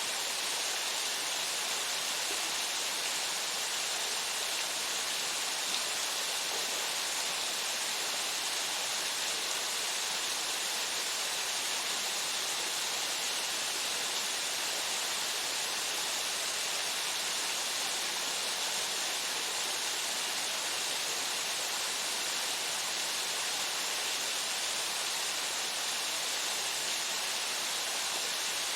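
Waterfall: water falling steadily into its pool, an even, unbroken hiss.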